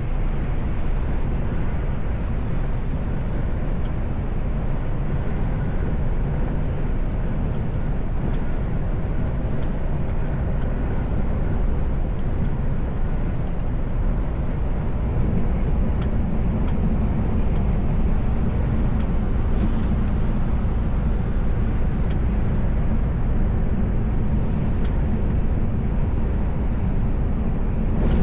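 Mercedes Actros L truck on the move: a steady mix of engine drone and road noise, filling out a little in the low end about halfway through.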